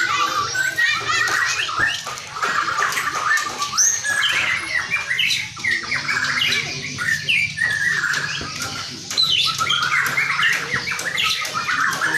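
A white-rumped shama (murai batu, Barito type from Kalimantan) singing a continuous, varied song of rapid whistles and chirps, with quick rising and falling notes, over a steady low hum.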